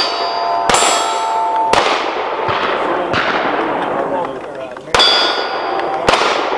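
Pistol shots fired at steel targets, each hit answered by the clang of a steel plate ringing on. Four shots: two about a second apart, a pause of about three seconds, then two more.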